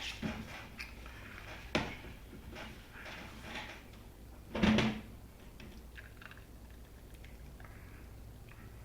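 A few sharp clicks and knocks from a beer can and glass being handled, with one louder clunk about four and a half seconds in.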